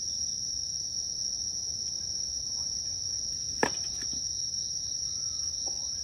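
Crickets or similar insects calling in a steady, unbroken high-pitched trill. About three and a half seconds in there is a single sharp click or knock.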